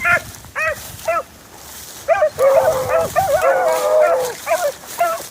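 Several rabbit-hunting hounds giving tongue: a few short, separate barks, then about two seconds in two or more dogs baying together in long, overlapping bawls.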